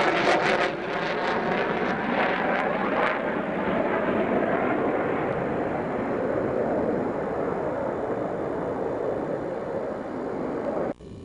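Military fighter jet's engine noise, very loud, crackling for the first second or so, then a broad steady rush that eases slowly as the jet moves away, cutting off abruptly near the end.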